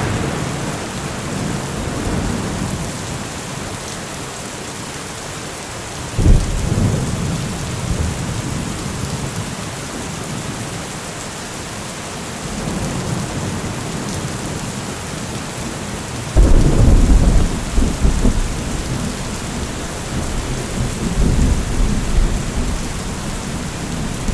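Steady rain with thunder. A sudden low clap comes about six seconds in, the loudest rumble about two-thirds of the way through, and more rumbling near the end.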